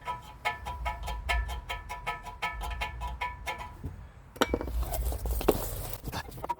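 Hand ratchet clicking quickly and steadily, about five metallic clicks a second, as a threaded tool is cranked to work a stuck part loose. Two-thirds of the way in the clicking gives way to a harsh rasping noise of metal working.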